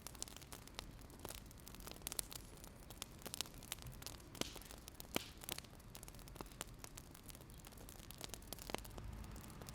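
Wood fire crackling: irregular sharp pops and snaps, several a second, over a faint low hum.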